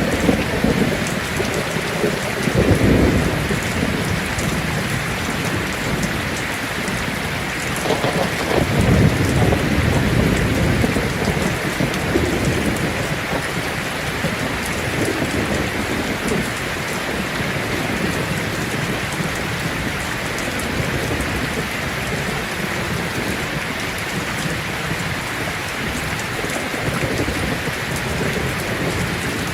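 Heavy rain falling steadily on a tin roof, with rolling thunder rumbling low twice, about two seconds in and again about eight seconds in.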